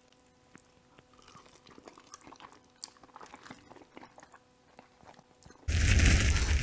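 Quiet chewing and slurping of thick spicy ramen noodles, with small wet mouth clicks. About five and a half seconds in, a loud burst of rushing noise lasting about a second cuts in, an added fire sound effect.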